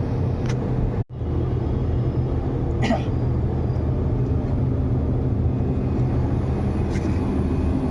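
Steady electrical motor hum from air-conditioning service equipment running, dropping out abruptly for a moment about a second in, with a faint short squeak around three seconds in.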